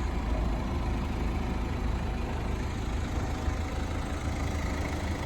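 A 1997 Mazda Bongo Friendee's 2.5-litre turbo diesel engine idling steadily.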